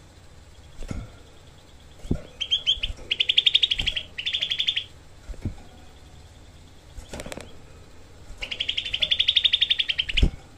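Cucak kelabu (grey-bellied bulbul) giving fast, harsh rattling calls, the close-spaced 'shots' of its song, in three short bursts a few seconds in and one longer burst near the end. Several short low thumps come between the calls.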